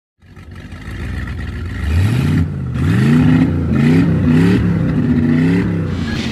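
Outboard engines on a Jeanneau DB37 powerboat revving up and down repeatedly, the pitch climbing and dropping several times.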